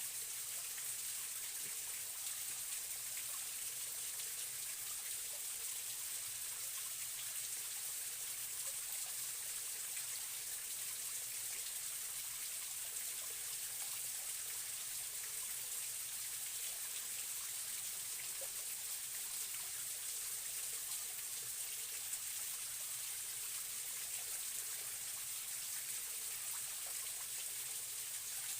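Forest stream running, a steady even rush of flowing water.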